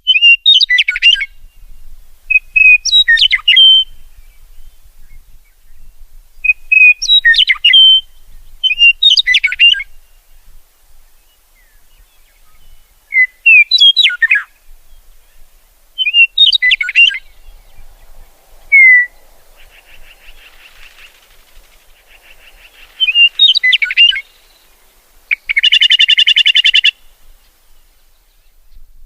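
Songbirds singing: short phrases of chirps and whistles come every two to three seconds. Two buzzy trills break in, about twenty seconds in and again about twenty-six seconds in. The birdsong starts right at the beginning after silence.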